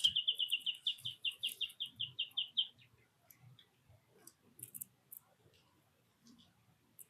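A small songbird sings a rapid, even trill of many quick repeated notes, which stops about two and a half seconds in, followed by scattered short, high chip calls.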